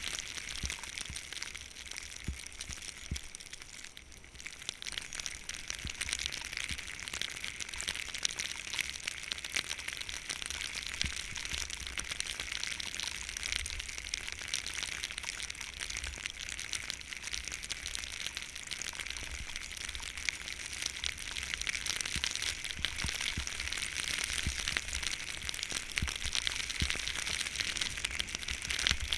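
Skis sliding over snow with a steady hiss and crackle, dipping briefly about four seconds in. Wind buffets the microphone underneath as a gusting low rumble.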